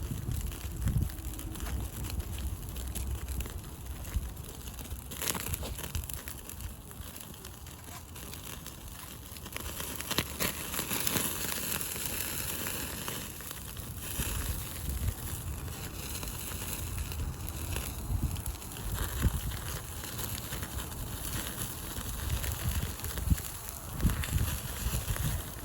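Wood campfire crackling, with scattered sharp pops and snaps over a steady hiss.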